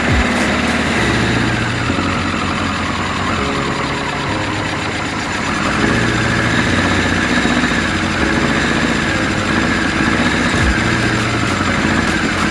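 Kawasaki KZ1000's air-cooled inline-four engine running steadily just after a carburettor rebuild, getting a little louder about six seconds in.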